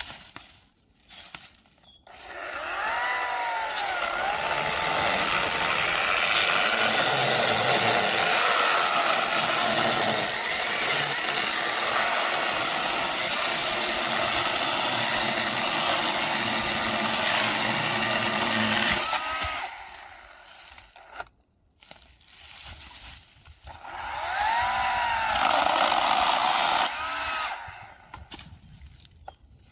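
Small chainsaw cutting firewood: one long steady cut of about seventeen seconds, then it stops. A few seconds later a second, shorter cut of about three seconds follows. Each run begins with the motor's pitch rising.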